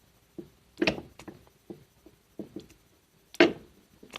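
Sharp metallic clicks and clacks, the loudest about a second in and near the end: a steel object snapping onto the poles of a Valeo alternator rotor energised by a battery charger. The pull shows the rotor's field winding makes a strong magnet after the repair.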